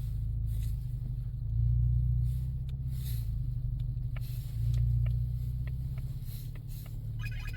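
2024 Mustang EcoBoost's turbocharged 2.3-litre four-cylinder and its road noise heard inside the cabin while driving through deep snow: a low steady drone that swells twice as the throttle is opened. Music comes in near the end.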